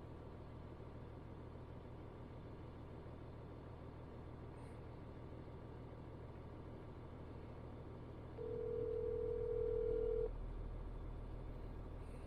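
Low steady hum inside a vehicle; about eight seconds in, a phone's ringback tone sounds once for about two seconds, an outgoing call ringing at the other end.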